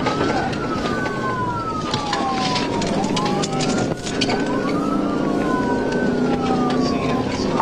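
Police car siren wailing in slow rises and falls of pitch, over the pursuing cruiser's engine and road noise at high speed.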